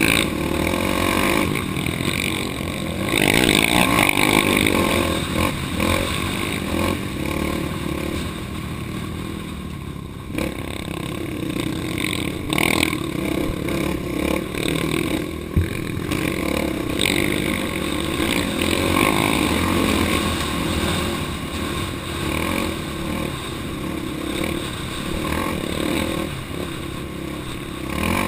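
Off-road vehicle engine running on a dirt trail, the revs rising and falling as it is ridden, with clatter and scraping from the rough ground. The engine is loudest about four seconds in, and there is one sharp knock about halfway through.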